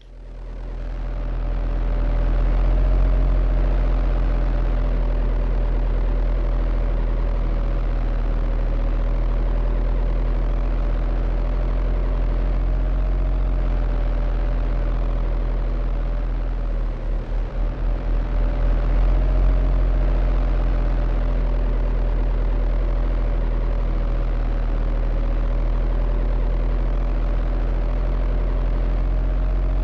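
Steady heavy-engine drone, like a diesel machine running at idle, with a deep rumble and a steady hum. About 17 seconds in it pulses for a couple of seconds.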